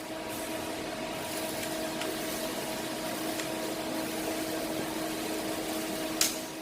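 Steady machine noise: an even hiss over a constant hum, starting at once at the beginning, with a sharp click near the end.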